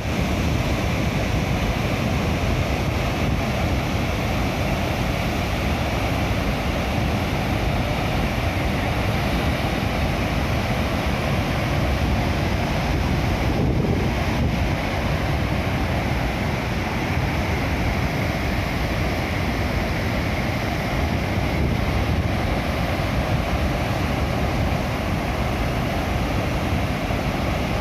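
Waterfall: a steady, unbroken rush of water falling over rock, heavy in the low end.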